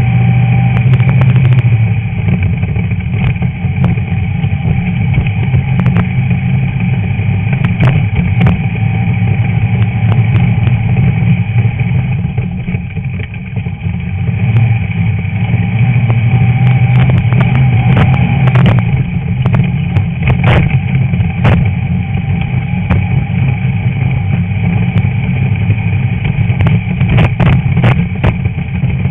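Stock air-cooled VW Beetle flat-four engine running hard at racing speed, heard from a camera on the front hood, with scattered sharp knocks and clatters. The engine eases off briefly about two seconds in and again for a couple of seconds around twelve seconds in.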